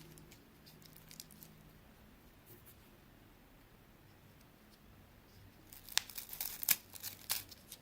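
Crinkling and crackling of handled plastic: a few faint crackles at first, then a quiet stretch, then a cluster of sharp crackles near the end.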